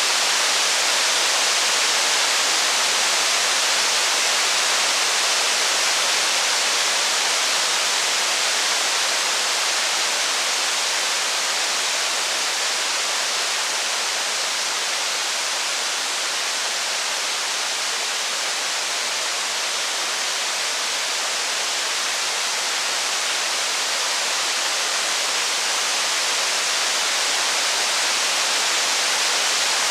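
Steady heavy rain, a dense even hiss with no separate drops, crackles or thunder, easing a little midway and building back.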